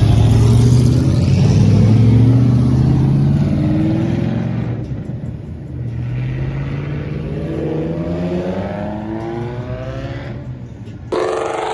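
Car engine accelerating hard, its pitch rising steadily through one gear, dropping at a shift about five seconds in, then climbing again through the next gear. Near the end a second, louder engine sound cuts in suddenly.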